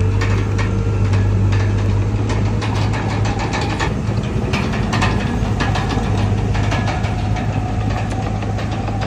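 Komatsu D31PX bulldozer's diesel engine running steadily, with many short metallic clanks and ticks over it and a faint whine that rises slowly through the second half.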